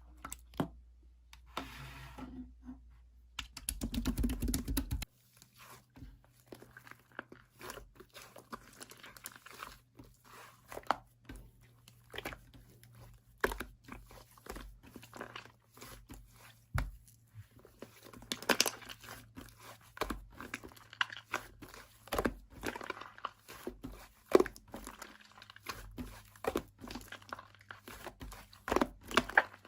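Slime being squished and worked by hand, giving irregular crackling clicks and crunches, with a louder burst about four seconds in.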